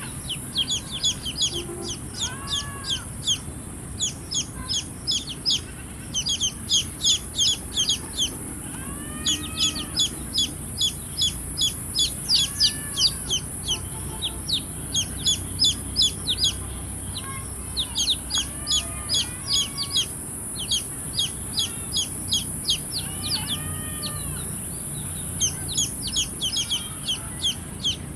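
Baby chicks peeping, many short high downward-sliding peeps in quick runs, in bursts separated by brief pauses. A lower, rounded call, a hen's clucking, comes in now and then, over a steady high hiss.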